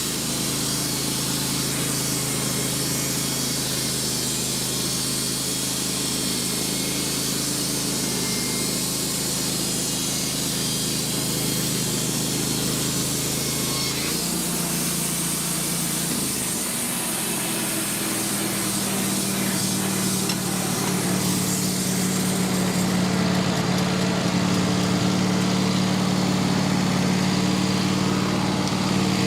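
Wood-Mizer LT15 band sawmill running steadily as the blade cuts through a larch log. About halfway through, the engine's pitch steps up and climbs further, and the high cutting hiss stops a few seconds later, as the blade leaves the cut.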